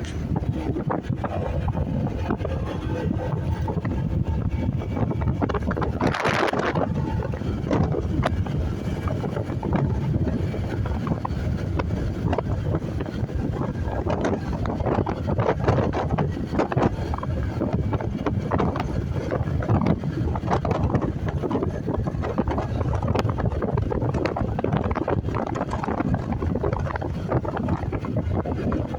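Wind buffeting the microphone of a motorcycle on the move, with the engine and road noise running underneath. A brief louder hiss comes about six seconds in.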